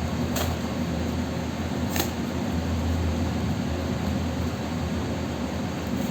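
Steady hum and whir of an electric fan running, with two faint ticks about half a second and two seconds in.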